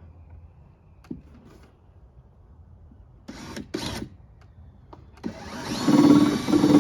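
Power drill/driver running for about two seconds near the end, driving a fastener into the half-inch plywood, which leaves a little split-out in the wood. Before it, a couple of short handling knocks.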